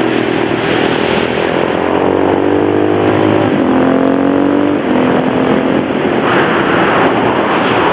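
KTM LC4 supermoto's big single-cylinder four-stroke engine accelerating hard. Its pitch climbs steadily and drops sharply at upshifts about three and a half and five seconds in. A rush of rougher noise comes in near the end.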